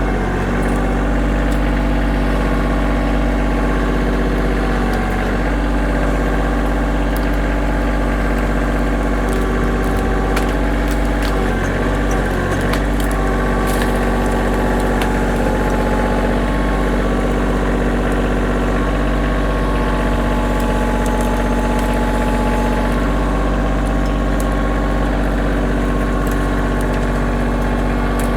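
Kioti tractor's diesel engine running steadily at a constant speed.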